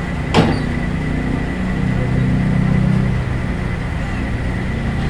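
Heavy engine of concrete-pouring machinery running steadily with a low hum that swells about two seconds in. A single sharp knock comes just after the start, and a thin, steady high whine runs under it.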